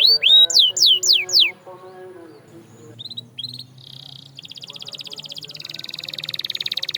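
Domestic canary singing: a run of loud, quick downward-sweeping whistles, a short lull with a few brief notes, then a rapid trill of evenly repeated notes starting about two-thirds of the way in.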